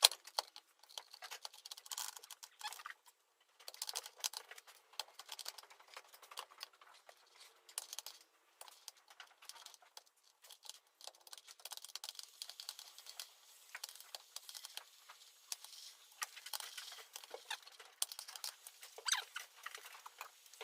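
Irregular light clicks and taps of small metal parts being handled and fitted during transmission work.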